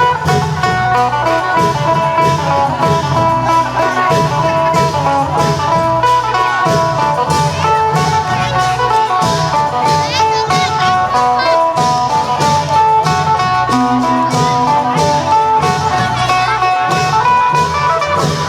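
Isan phin (plucked lute) playing a running melody over klong yao long drums and cymbals keeping a steady beat, as in an Isan procession band.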